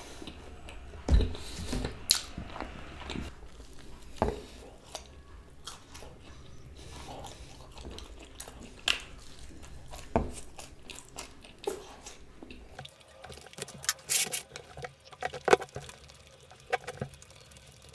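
Close-miked chewing of cheesy bread: soft wet mouth sounds with sharp clicks here and there, and a busier run of clicks near the end.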